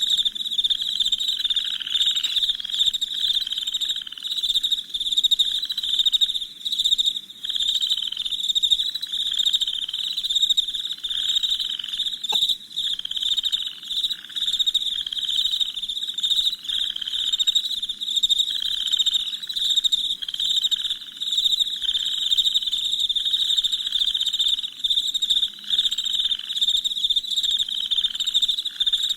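Night chorus of crickets chirping continuously in a dense high-pitched trill, with a lower pulsing call repeating about once a second beneath it.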